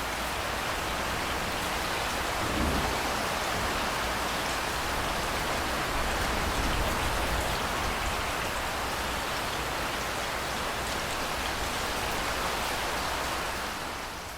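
Steady heavy rain falling, with low thunder rumbling about two and a half seconds in and again around the middle. The rain fades down near the end.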